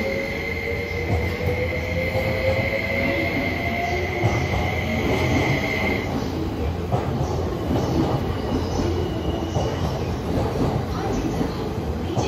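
JR East E261 series electric train pulling away and gathering speed past the platform: its motor whine climbs slowly in pitch over the first few seconds, and a steady high tone stops abruptly about six seconds in. Rumble and clatter of the wheels on the rail run underneath as the cars pass.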